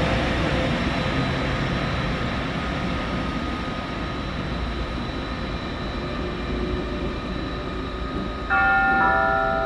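ÖBB Railjet train pulling out, its running noise fading steadily as it draws away. Near the end a sudden, louder sequence of steady tones starts, stepping down to lower notes.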